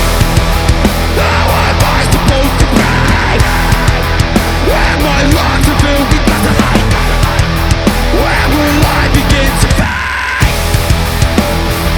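Heavy rock song: the full band comes in loud at the start, with dense drum hits over a sustained low end. Near the end it drops out briefly before carrying on.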